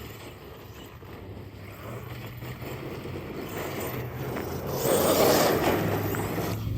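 Arrma Outcast 8S RC truck driving over wet, muddy ground, its motor and tyres running. It grows louder to a peak about five seconds in, then eases off.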